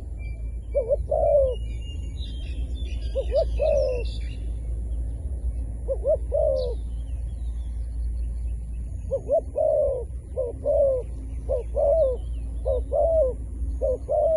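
Zebra dove cooing in short, repeated phrases of quick rising-and-falling notes. The phrases come a few seconds apart at first, then about one a second in the second half. Small birds chirp higher up during the first few seconds.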